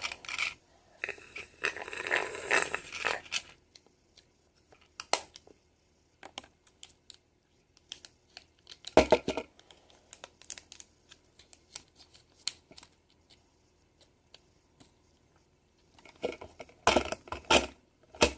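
Crinkling and tearing of plastic packaging, with scattered clicks and small taps of kit parts being handled, and a louder knock about halfway through.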